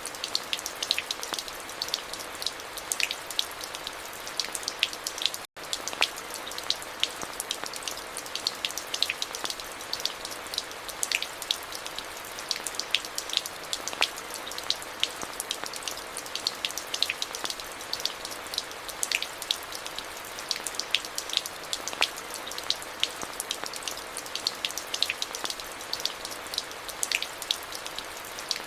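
Steady rainfall: an even hiss of rain with many sharp, close drop impacts ticking on a hard surface. The sound cuts out for a split second about five and a half seconds in.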